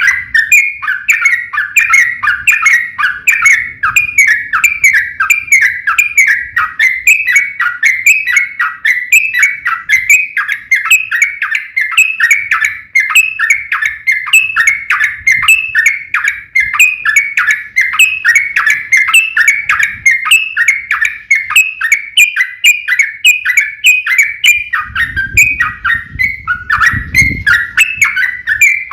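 Yellow-vented bulbul (trucukan) singing a long, unbroken run of fast, repeated chattering notes, the rapid 'ropel' fighting song. A low rumble comes in near the end.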